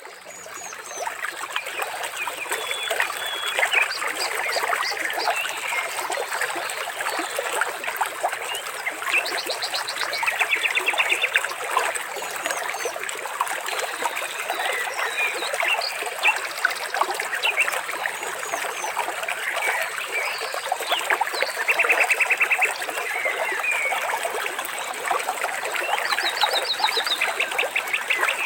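Trickling, splashing water with birds chirping, whistling and giving several fast trills over it; the sound fades in over the first second or two.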